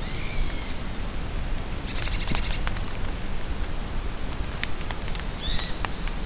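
Songbirds calling over steady rain with scattered drips: a phrase of several descending notes at the start, a fast buzzy trill about two seconds in, a few short high notes, and another call phrase near the end.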